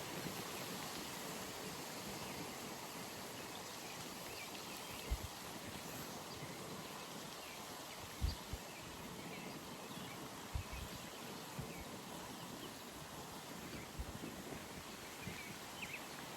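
Outdoor pond ambience: a steady background hiss with faint, scattered bird chirps. Several brief low thumps stand out, the loudest a little past the middle.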